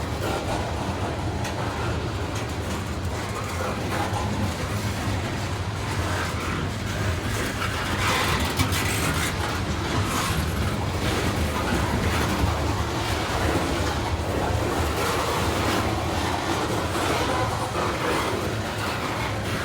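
Freight train cars rolling steadily past on the rails, the wheels clacking over the rail joints every second or so.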